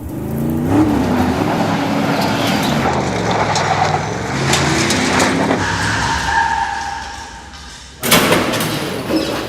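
A car engine revving, its pitch rising and falling, with tyres squealing about six seconds in, then a sudden loud noise about eight seconds in.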